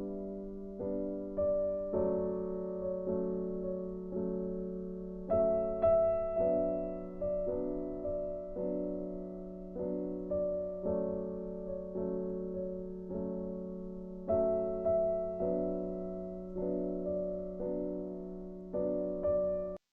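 Background piano music: soft, slow notes struck about once a second over a held low note.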